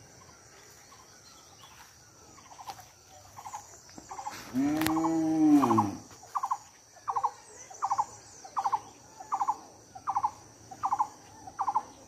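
A bird calling in short clipped notes of two or three quick strokes, repeated about once every 0.7 s and growing louder, over a steady high insect drone. About halfway through, a much louder long call rises and then falls in pitch for about a second and a half.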